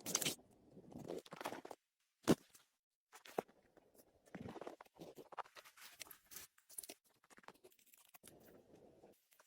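Irregular crunching and scraping of snow being worked by hand, in short spurts with pauses, and one sharp knock about two seconds in.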